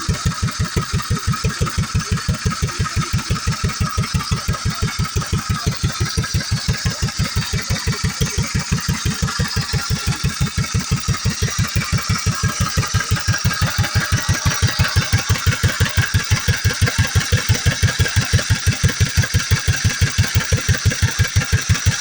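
1935 Bernard C3 17 hp engine running steadily, with an even firing beat of about five beats a second that grows a little louder in the second half.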